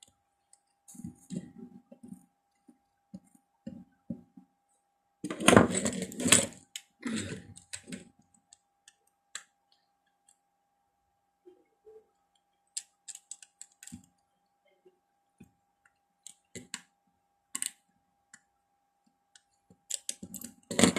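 Irregular clicks and clatter of small tools and electronic parts being handled on a workbench while desoldering MOSFETs from a circuit board, busiest about five to seven seconds in. A faint steady high tone runs underneath.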